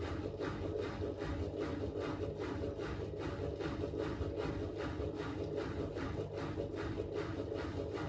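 Miele Navitronic W3985 WPS washing machine in its final spin at about 1200 rpm: a steady hum with a regular whoosh about three times a second.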